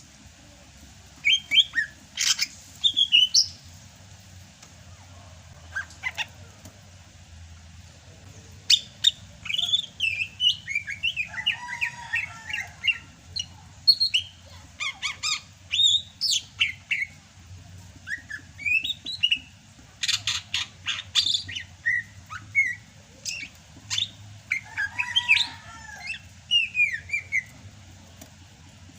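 Sumatran green leafbird (cucak hijau) singing in bursts of sharp chirps, whistled glides and quick trilled runs, with a steady low hum underneath.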